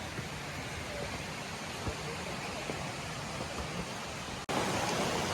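Steady outdoor background noise, a hiss with no clear events in it. About four and a half seconds in it breaks off for an instant and comes back slightly louder.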